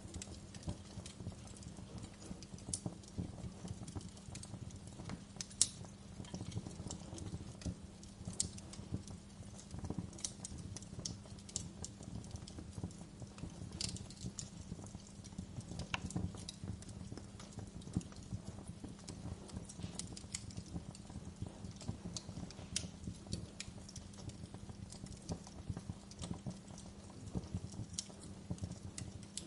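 Fire crackling: a steady low rumble of flames with irregular sharp pops and crackles throughout, one louder pop about five and a half seconds in.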